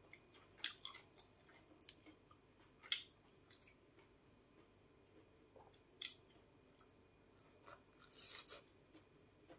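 Faint mouth sounds of eating a chewy fried Thai fish cake (tod man): scattered soft clicks of chewing, with a short cluster of sounds near the end as she bites into it.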